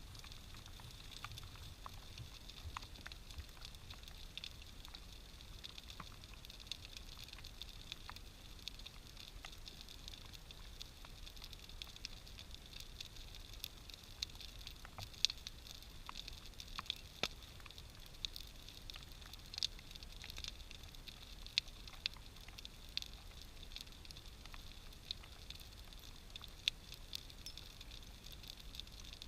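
Large wood-pile bonfire crackling, with scattered sharp pops that come louder and more often in the second half.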